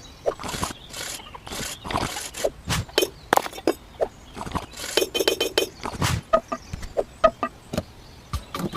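Irregular clinks, taps and brief scrapes of small hard pieces being handled, typical of miniature bricks and tools in hand-scale construction work, with a louder knock about six seconds in.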